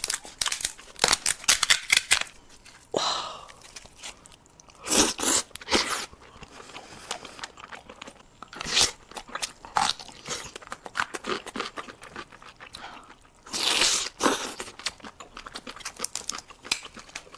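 Close-miked eating of king crab in spicy sauce: irregular crunches and wet chewing, with a couple of longer sounds about three seconds in and near the fourteenth second.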